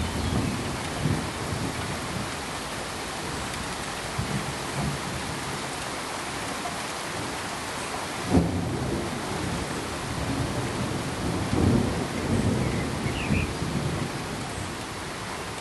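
Steady pink-noise hiss with irregular low rumbles rolling under it, the sharpest jolt about eight seconds in.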